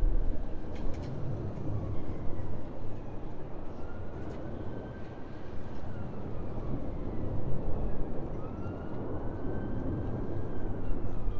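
Steady low rumble of a passing jet airliner, with a faint engine whine that slowly rises and falls in pitch.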